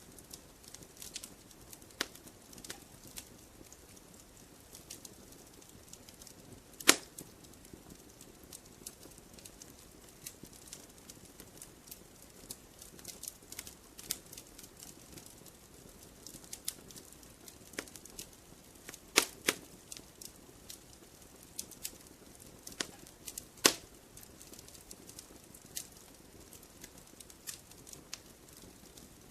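Wood campfire crackling: scattered small snaps over a low hiss, with a few sharp, louder pops about seven seconds in, a pair near nineteen seconds and one near twenty-four seconds.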